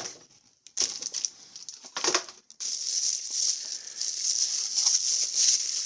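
Unpacking noise: two brief knocks, then a continuous high rustling and crinkling as the packaging around the device is handled.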